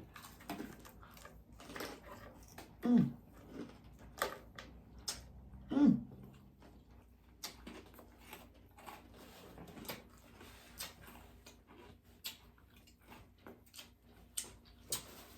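Close-miked chewing and crunching of crispy chicken and bacon lettuce wraps: many small sharp clicks and crackles throughout, with two short falling hums from a voice about three and six seconds in.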